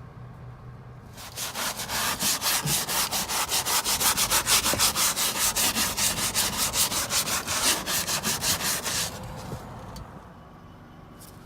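Stiff scrub brush scrubbed hard back and forth over a mud-caked truck floor, loosening the dirt, at about five strokes a second. It starts about a second in and stops about two seconds before the end.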